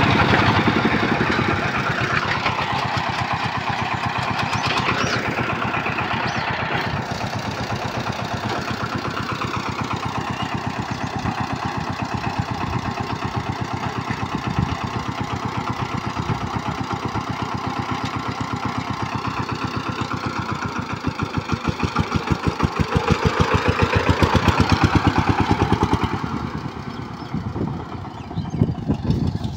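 Single-cylinder Changfa-type diesel engine of a bhotbhoti motor van running with a fast, even chugging beat. It speeds up and gets louder near the end, then drops back.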